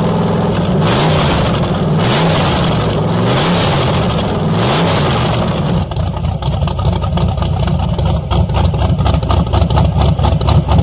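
Big supercharged V8 engine revving hard about four times, each rev a rising howl. About six seconds in it gives way to a small car engine running rough, with rapid sputtering pops.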